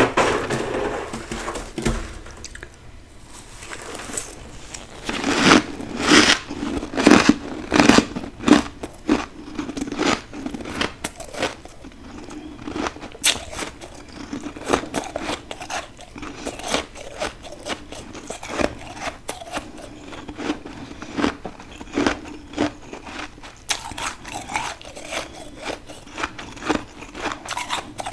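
Deep-freezer humidifier frost being bitten and chewed close to the microphone: an irregular run of crisp crunches, several a second.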